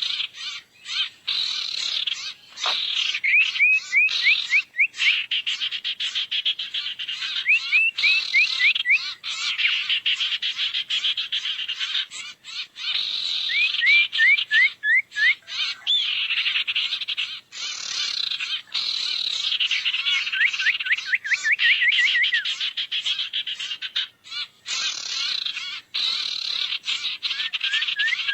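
Sirtu birdsong used as a trapping lure: continuous high-pitched twittering and fast trills, broken up every few seconds by runs of short, quickly repeated slurred notes.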